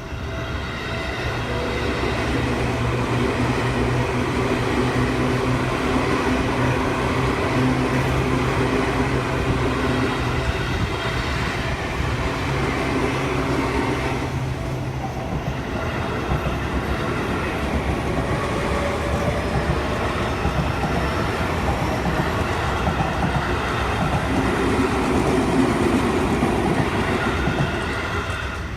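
Seibu Shinjuku Line electric commuter train passing close by at a level crossing, with the loud, steady running noise of wheels and motors. The noise dips briefly about halfway through, then builds again until near the end.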